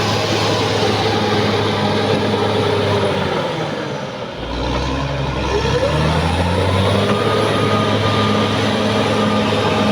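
Caterpillar D6R XL bulldozer's diesel engine running. About three and a half seconds in its pitch and loudness sink, then from about five and a half seconds the pitch climbs again as the engine revs back up.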